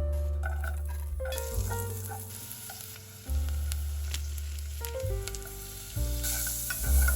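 A steady sizzling hiss that starts about a second in and grows brighter near the end, over soft background music with piano and bass notes.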